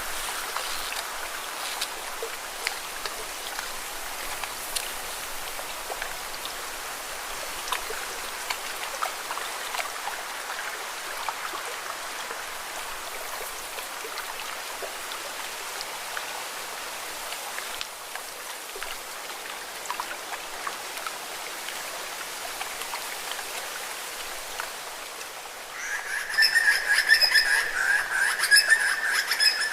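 Small lake waves lapping and splashing against rocks, a steady hiss of water with scattered little splashes. Near the end a loud, high, trilling call starts abruptly and continues over the water.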